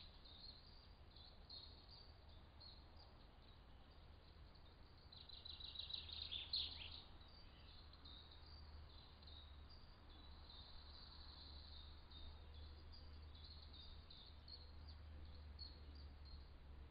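Faint bird chirps over a low steady hum. About five seconds in, a louder rapid trill rises to a single call that sweeps down in pitch.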